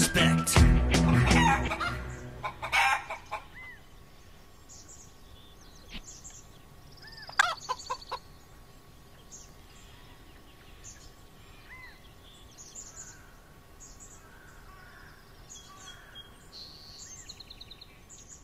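Backing music fading out over the first few seconds, then a caged pet bird chirping in short high calls and trills, with one louder call about seven seconds in.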